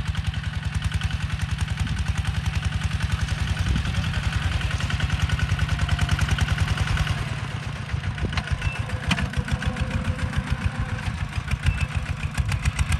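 Kubota ZT140 Plus tractor's single-cylinder diesel engine running steadily while plowing: a rapid, even chugging with clatter, easing slightly about seven seconds in.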